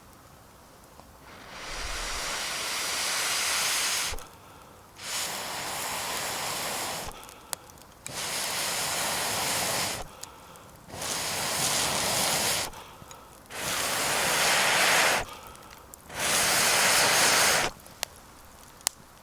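Air blown in six long breaths into a campfire to fan the flames, each a rushing hiss about two seconds long, with short pauses between for breath.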